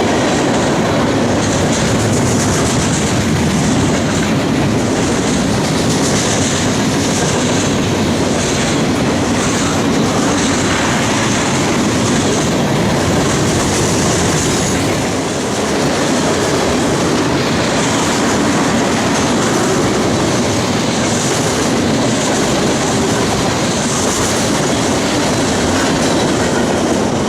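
A train's cars rolling steadily past, wheels clacking over the rail with a fluctuating high-pitched wheel squeal.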